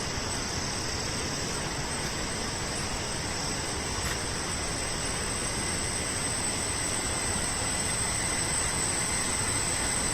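A rocky mountain river rushing: a steady, even roar of water that grows slightly louder toward the end, with a thin steady high tone above it.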